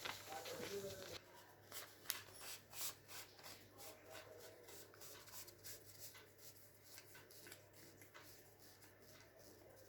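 Faint, irregular rustling and crinkling of newspaper being rolled by hand around a pen refill, with a low steady hum underneath.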